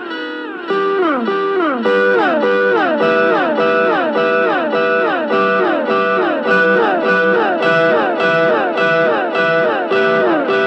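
Electric guitar through a Boss DD-3 digital delay pedal, its echoes stacking into a looping pattern of notes that keep sliding down in pitch. A louder layer of repeats comes in just under a second in.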